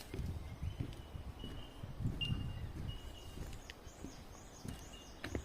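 Outdoor wetland ambience: a low rumble on the microphone, with a thin high call repeating several times in short held notes.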